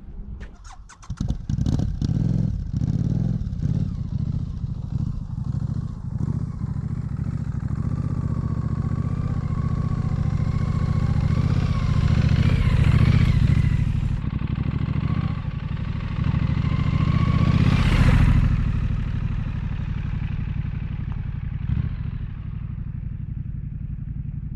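Triumph Street Scrambler's parallel-twin engine firing up about a second in, then running, with the revs rising twice, around halfway through and again near three-quarters of the way.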